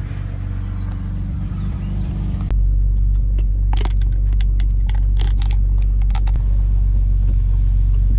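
A BMW's engine idling steadily. About two and a half seconds in it suddenly sounds louder and deeper, and a run of light clicks and knocks follows over the next few seconds.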